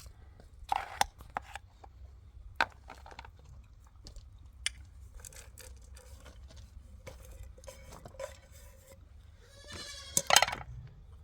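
A goat bleating once near the end, after a few scattered clicks and knocks.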